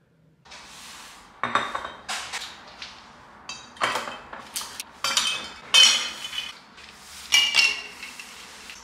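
Ice cubes dropped one after another into a tall drinking glass, a series of sharp ringing clinks at irregular intervals.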